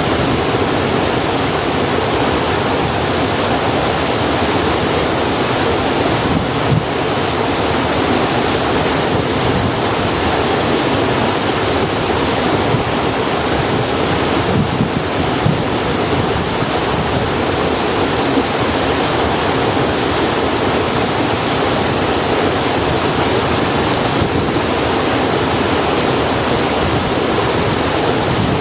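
Steady, even rushing noise, with a few faint crackles from a campfire of damp wood scattered through it.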